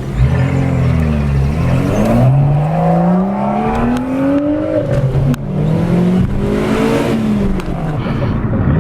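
BMW M2 F87's turbocharged inline-six with the M Performance exhaust accelerating hard: the pitch dips and climbs, pulls up through a long rise, breaks at a gearchange about five seconds in, climbs again and falls away near the end.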